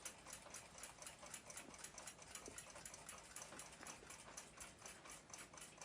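Faint, fast, regular ticking of a clock, about six ticks a second.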